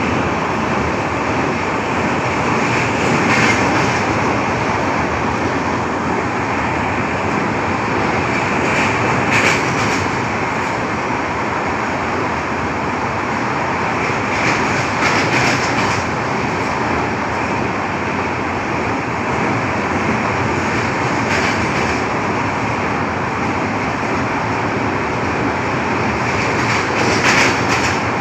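Steady running noise of a moving vehicle, with a brief louder clatter roughly every six seconds.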